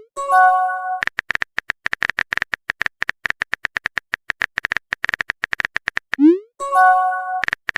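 Phone texting sound effects: a short message chime, then a fast run of keyboard taps, about ten a second. A short rising pop comes about six seconds in, followed by another chime and more taps.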